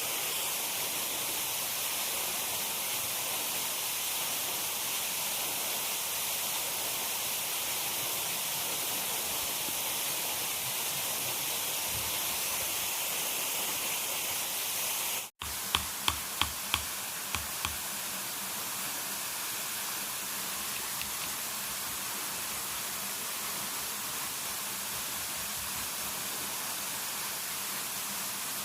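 Steady rushing water noise. About halfway through it cuts out for an instant, then about six sharp knocks come in quick succession over roughly two seconds, and the rushing carries on slightly quieter.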